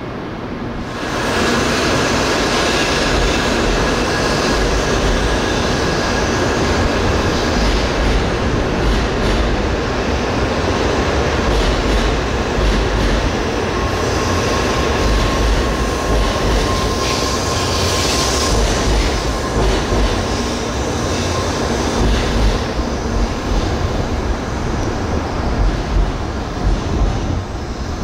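N700 series Shinkansen train running through the station. Its rolling noise rises about a second in and stays loud and steady for over twenty seconds, with a faint high whine over it. Uneven clacks come in near the end.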